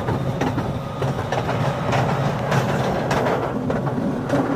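Train running on rails: a steady low rumble with repeated clicks from the wheels on the track.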